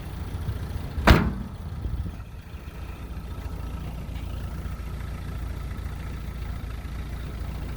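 A door slams once about a second in, then the 1987 Toyota pickup's engine idles steadily, still cold and not yet warmed up.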